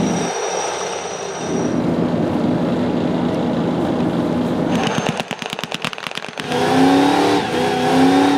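Car engines: a steady engine sound, then a rapid crackle of sharp pops lasting about a second and a half, then an engine held at high revs from about two-thirds in, spinning its rear tyres in a smoky burnout.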